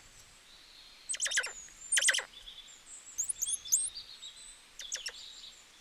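Bird calls: short bursts of sharp, high chirps about a second in, again at two seconds and near the end, with thin, quick, rising whistles in between.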